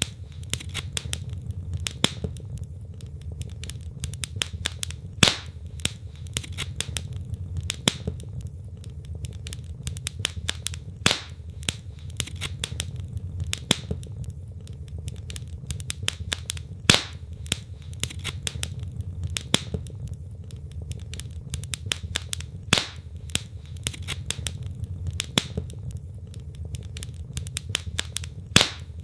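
Wood logs burning in a fireplace, crackling: a constant scatter of small snaps and ticks with a louder pop every few seconds, over a low steady rumble of the flames.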